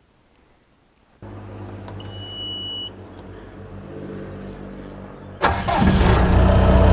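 Bobcat 853H skid steer being started: a steady low hum comes on about a second in, a short high beep sounds, then the diesel engine fires near the end and runs loudly.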